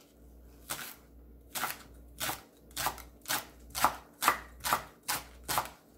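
Kitchen knife slicing green garlic stalks thinly on a cutting board: about ten crisp cuts, roughly two a second, each ending in a knock on the board.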